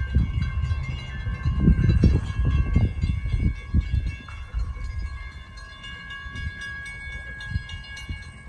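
Metra Electric commuter train passing a level crossing, its wheels rumbling and thumping over the rails, loudest in the first half and then easing off as it goes by. Steady ringing tones from the crossing signal sound throughout.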